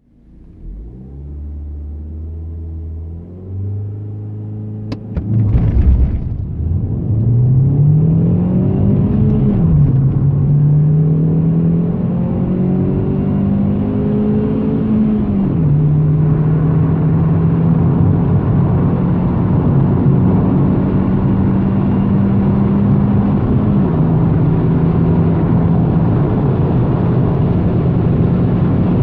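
Opel Astra G's 1.8-litre 16-valve four-cylinder (Z18XE) accelerating hard from a standstill. The engine note rises and drops back at gear changes about 9 and 15 seconds in, then holds a steady pitch.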